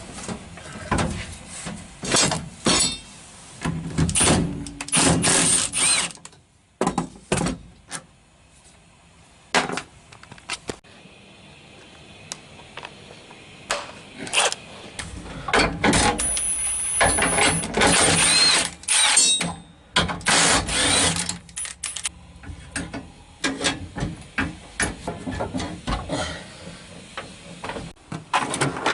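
A power tool, such as a drill or impact driver, whirring in short bursts that speed up and slow down, mixed with knocks and clanks of hand tools on metal.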